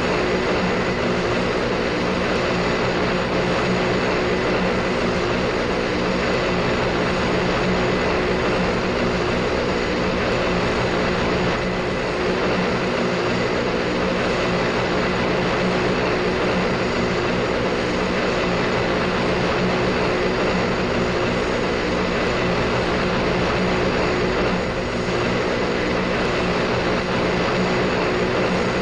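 Airplane engines droning steadily, a constant hum under an even hiss with no change in pitch or loudness.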